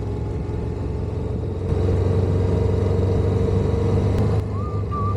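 Motorcycle engine running while riding, louder from about two seconds in and easing back near the end. A short, wavering, bird-like whistled call comes in over it near the end.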